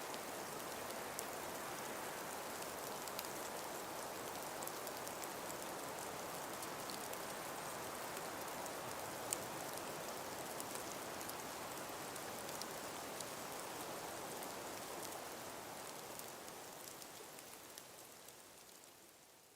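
Steady outdoor nature ambience: an even hiss with many scattered light ticks, like fine patter. It fades out gradually over the last few seconds.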